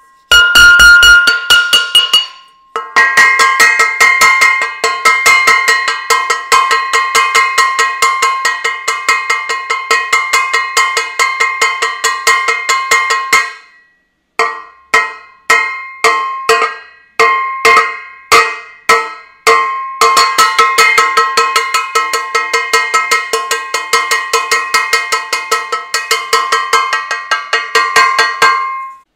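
Saucepan banged over and over, each hit ringing with a metallic clang. Long rapid runs of several strikes a second are broken by a stretch in the middle of slower, separate strikes about two a second.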